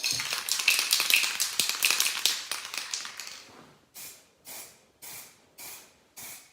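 Aerosol spray can of Dupli-Color primer spraying: about three seconds of continuous, fluttering spray, then, after a brief pause, short puffs about twice a second, laying on light coats to avoid runs.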